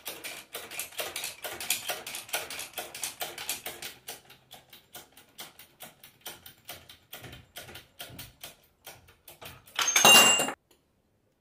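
Rapid mechanical clicking, about four or five clicks a second, as a press pushes a Bosch alternator's rotor shaft out of its bearing; the clicks grow fainter about four seconds in. Near the end comes a short, loud burst of noise, then the sound cuts off.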